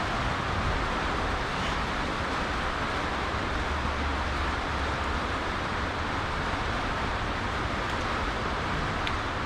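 Steady outdoor background noise: an even, continuous hiss with an unsteady low rumble underneath, and no distinct events.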